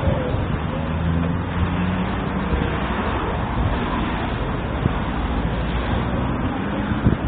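Road traffic noise, with a motor vehicle's engine hum heard low and steady over the first two seconds or so.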